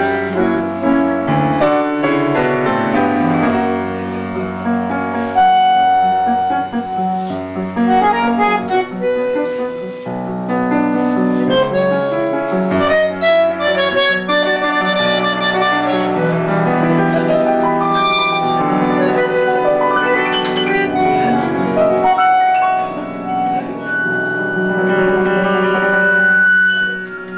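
Bandoneon and piano playing a tango together: the bandoneon's sustained reedy chords and melody over the piano's bass and chords.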